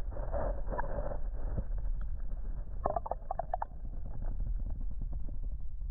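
Wind rumbling on the microphone over the steady rush of flowing creek water, with a short cluster of sharp little sounds about three seconds in.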